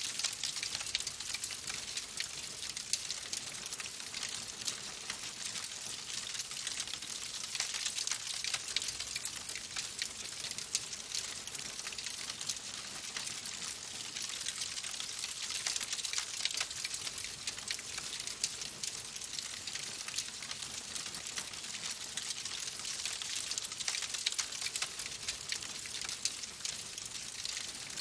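Wood fire in a fireplace crackling steadily: many small pops and snaps over a soft hiss.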